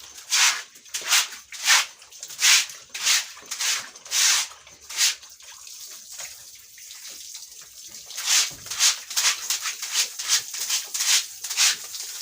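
Broom sweeping a floor in quick regular swishing strokes, about one and a half a second, that stop for a few seconds midway and then start again.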